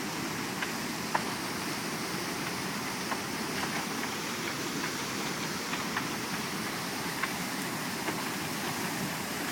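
Steady rush of fast-moving floodwater in a swollen river, with a few faint clicks.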